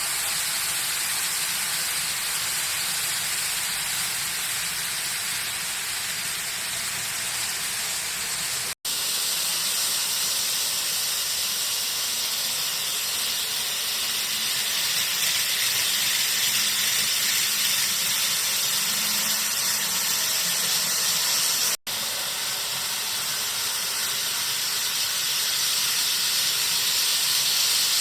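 N-scale model train running on its track: a steady hissing whir from the small motor and wheels on the rails, broken twice by a brief dropout.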